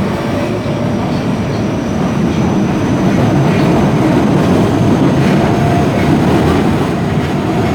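Osaka Metro 22 series subway train running, a steady rumble of wheels on rail with a faint steady whine from its Mitsubishi GTO inverter drive.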